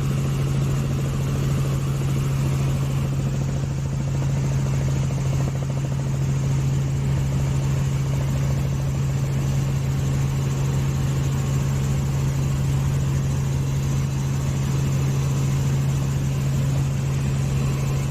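A steady engine drone with a strong, constant low hum that doesn't change in pitch or level.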